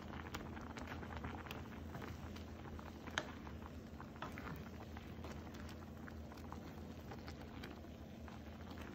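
Pot of topokki sauce and noodles bubbling, with many small irregular pops and one sharper click about three seconds in, over a steady low hum.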